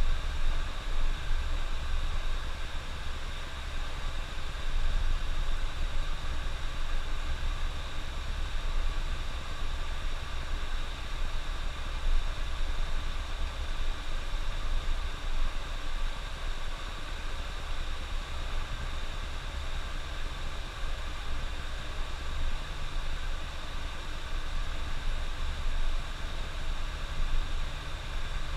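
Coach bus cruising on the highway: a steady low engine drone under continuous road and tyre hiss.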